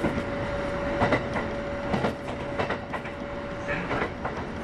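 Kintetsu 8810 series electric train running, with rail-joint clicks about once a second over steady rumble and a steady high hum.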